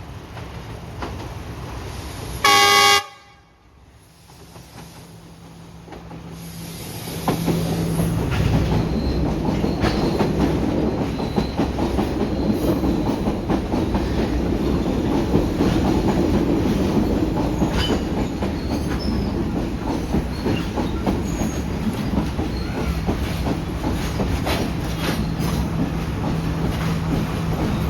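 Class S14 diesel multiple unit sounds one short, loud horn blast about three seconds in. A few seconds later its running noise swells and then holds: a steady diesel engine drone under wheels clattering and clicking over rail joints.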